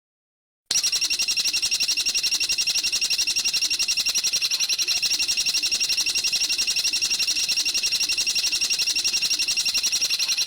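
A bird's rapid, even trill of high notes that starts abruptly about a second in, keeps an unbroken fast rhythm for about ten seconds, and cuts off suddenly near the end.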